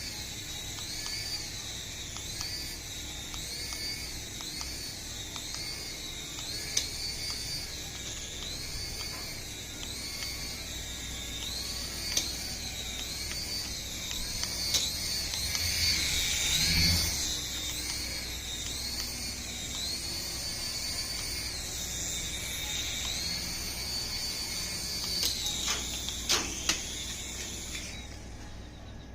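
Small electric rotor motors of a mini 3.5-channel RC toy helicopter running with a high whine that wavers up and down in pitch about once a second, with a few sharp knocks. The whine cuts off near the end.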